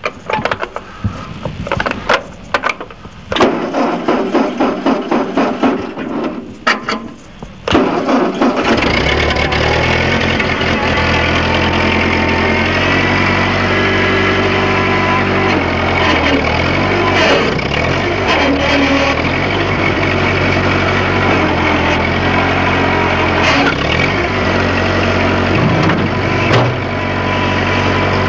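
1948 Ford 8N tractor's four-cylinder flathead engine cranking on the starter for about eight seconds, with short pauses, then catching and settling into a steady idle; the tractor has not been started in a while.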